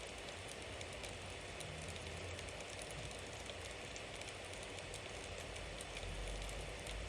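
Bonfire burning: a steady hiss of flames with frequent small crackles and pops and a low rumble underneath.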